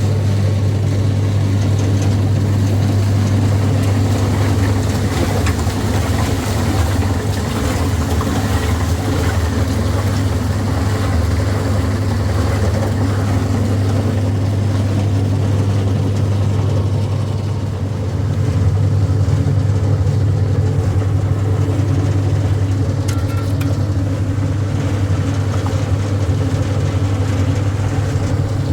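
An engine running steadily at an even speed, a strong low hum that dips briefly about eighteen seconds in.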